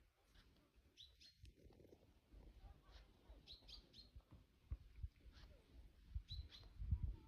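Faint birds chirping: short high chirps about a second in, again around three and a half seconds and near six and a half seconds, over a low background rumble with a few soft bumps.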